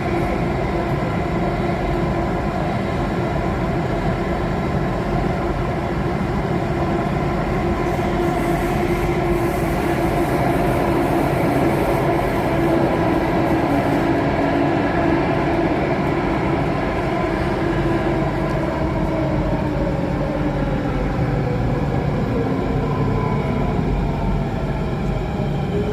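Alstom Metropolis C830 metro train running, heard from inside the car: a steady rumble with the whine of its traction motors. From about halfway the whine falls in pitch as the train slows for the next station.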